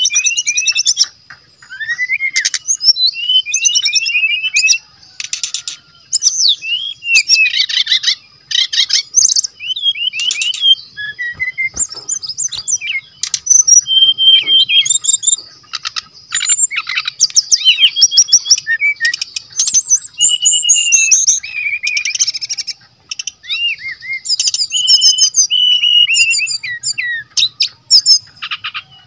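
Brown-chested jungle flycatcher singing a fast, varied song of whistled notes, sliding phrases and harsh clicking chatter, in bursts with short pauses between them. This is the full, vigorous song that keepers use as a tutor and lure recording for the species.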